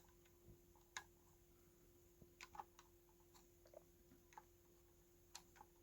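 Faint, irregular light clicks and taps, about eight or nine scattered through, from a jumper or probe touching points on a talking toy's circuit board while capacitors are shorted to unlock its locked-up sound chip. A faint steady hum lies underneath.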